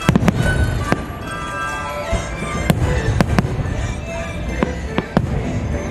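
Aerial firework shells bursting in sharp bangs, about eight at uneven intervals, over a loud music soundtrack with held notes.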